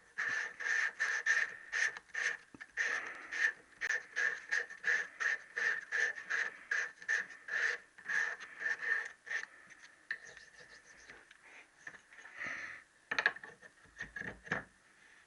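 Hand reamer being turned in a conrod's small-end bush, cutting the bush out to fit the gudgeon pin. It gives quick, squeaky scraping strokes, about three a second, for some nine seconds, then a few slower single scrapes near the end.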